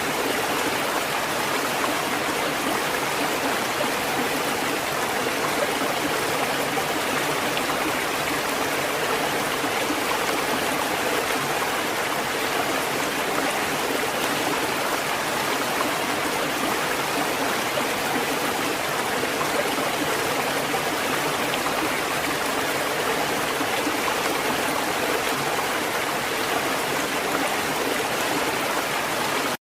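Steady, even rushing water noise with no rise and fall of surf, like a constant stream or distant water rush.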